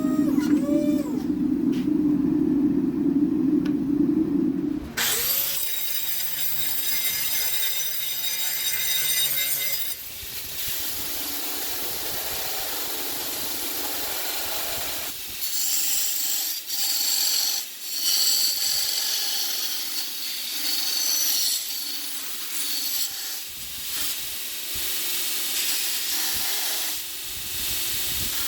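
Shop power tools working a steel knife blade, in several short segments that cut abruptly from one to the next.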